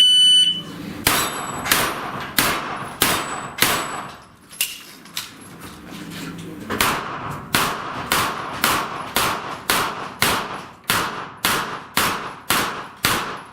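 A shot timer's start beep, then pistol-calibre gunshots at steel plates, with the steel ringing on the hits. About five shots come roughly one every 0.6 s, then a pause of about two and a half seconds while the shooter moves position, then a steady string of about a dozen shots at nearly two a second.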